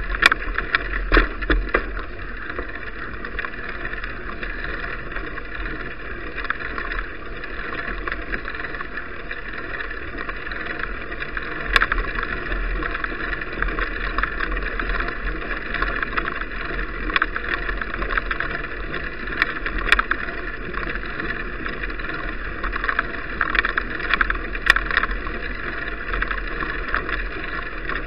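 Steady riding noise of a bicycle picked up on an action camera: a constant rushing hiss with scattered rattling clicks and knocks, the sharpest about 12 and 20 seconds in.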